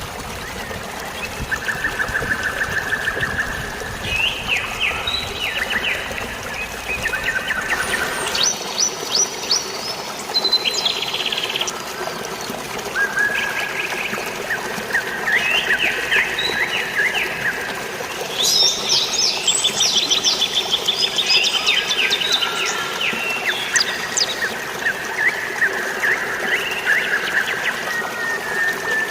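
Several birds chirping and singing in rapid trills and short repeated notes, overlapping one another throughout, over a steady hiss of rain and running water.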